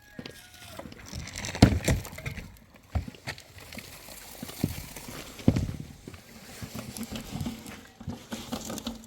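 Irregular knocks and thuds, the loudest about one and a half and five and a half seconds in.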